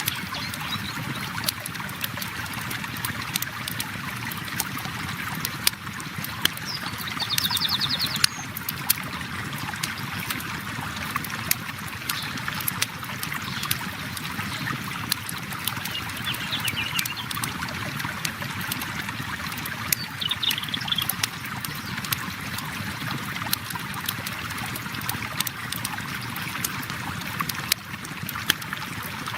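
A river flowing steadily, with a campfire crackling over it in frequent short sharp pops.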